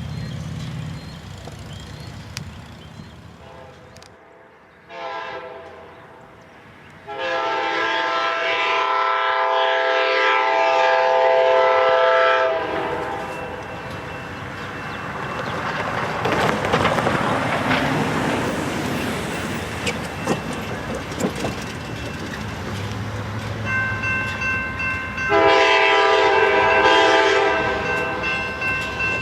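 Diesel locomotive horn sounding a multi-tone chord: a short blast, then a long one of about five seconds. Rolling train noise with wheels on rails follows. A second horn blast comes near the end, over a steadily pulsing ringing bell.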